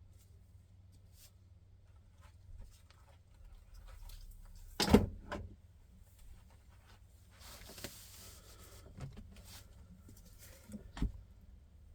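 Scattered knocks and clicks of tools and metal engine parts being handled during a motorcycle engine teardown, with a louder knock about five seconds in and another near the end, and a short rustle in between.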